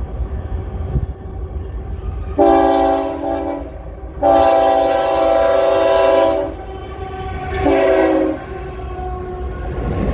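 Locomotive air horn sounding three blasts of a multi-note chord, a shorter one, a long one and a short one, over the steady low rumble of the passing train.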